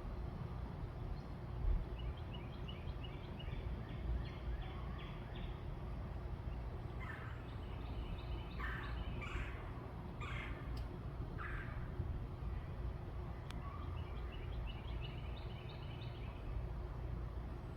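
Backyard birds calling over a steady low rumble. A rapid trill of short high notes comes early and again near the end, with about five harsh, rasping calls in the middle.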